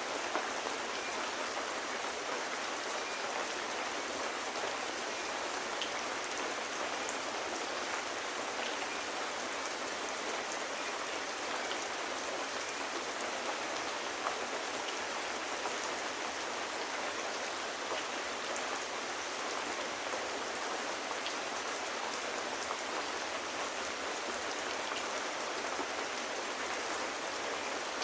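Steady rain falling on surfaces, an even hiss with scattered faint ticks.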